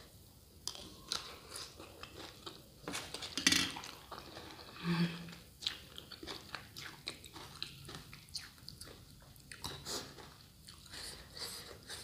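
Close-up chewing and crunching of a mouthful of shredded sour green mango salad, a run of crisp crunches with the loudest bite about three and a half seconds in.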